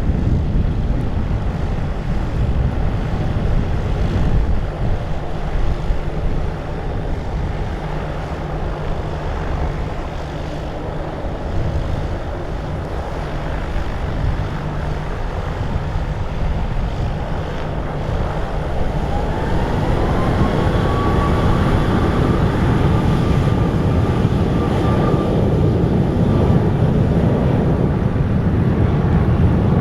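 Wind buffeting the microphone, with an airplane's engines growing louder in the last third. A whine rises in pitch and then holds steady over a deepening rumble.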